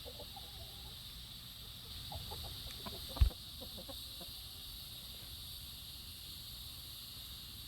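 Chickens clucking softly and sparsely at roosting time, with one sharp dull thump about three seconds in. A steady high insect buzz runs underneath.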